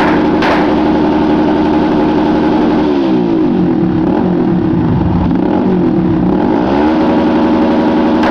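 Small-displacement motorcycle engine held at high revs against its rev limiter; the revs sag about three seconds in and climb back up to the limiter near the end.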